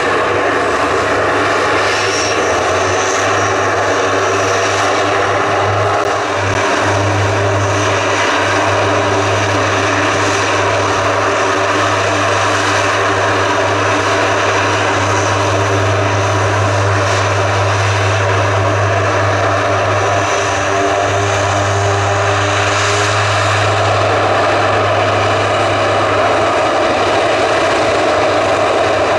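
Propeller engines of a KC-130 transport aircraft running with a steady, loud drone, a few pitch lines shifting slightly about six seconds in and again near the end.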